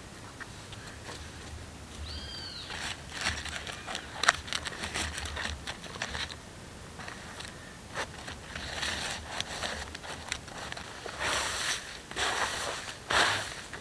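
Rustling and scraping handling noises with scattered sharp clicks and knocks, and a single short chirp about two seconds in.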